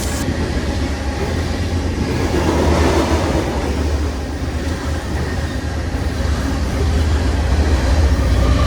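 Freight train rolling past: a loud, continuous low rumble of the cars and wheels, swelling about three seconds in and again near the end.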